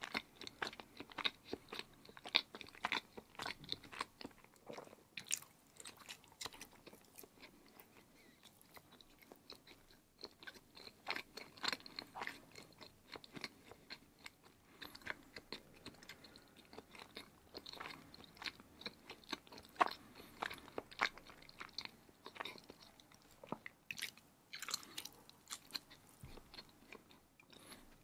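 Close-miked chewing of firm block cheese: a steady run of sharp mouth clicks that goes on throughout.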